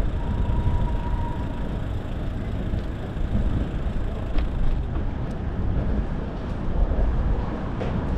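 Steady low rumble of street traffic and wind noise picked up by a moving bike-mounted microphone, with a faint steady tone for about a second near the start and a few light clicks.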